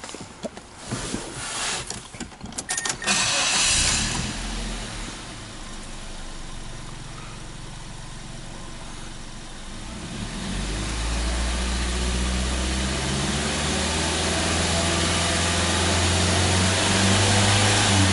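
Mazda Verisa's 1.5-litre four-cylinder engine started after a few clicks: it cranks and catches about three seconds in, then runs steadily, growing louder from about ten seconds in.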